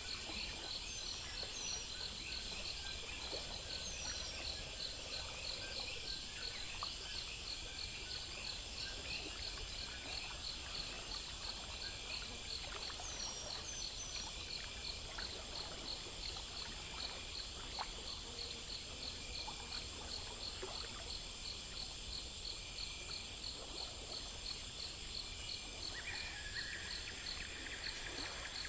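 Chorus of crickets and other insects chirping in a steady, rapid, even pulse, with a few short high chirps now and then over a faint steady hiss.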